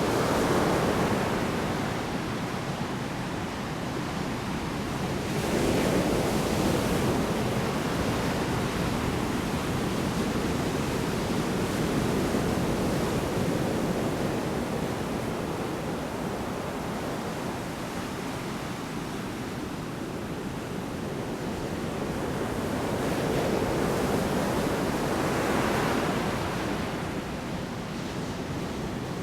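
Large storm waves breaking on a shore: a continuous rushing wash of surf that swells louder as each big wave crashes, about six seconds in and again near the end.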